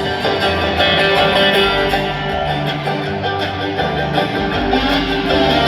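Live bluegrass string band playing an instrumental break: strummed and picked guitars over changing bass notes, with no singing.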